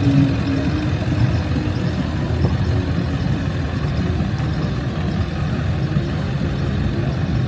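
Classic American car engines running steadily at low revs, a continuous low-pitched idle.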